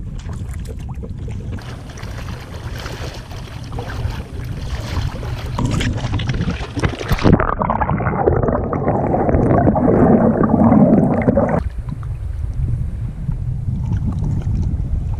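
Kayak on open water: a constant low rumble of wind on the microphone over water sounds from the hull and paddling. The sound changes abruptly about seven seconds in and again near twelve seconds.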